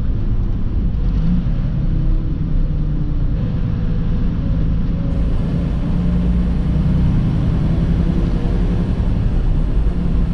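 Semi-truck engine running with a steady low rumble, heard from inside the cab, its pitch wavering slightly.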